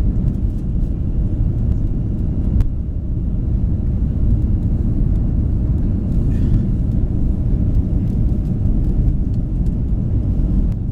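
Airbus A330-200 cabin noise at a rear window seat: a steady, loud low rumble of its Rolls-Royce Trent 700 turbofan engines and airflow, with a few faint cabin ticks.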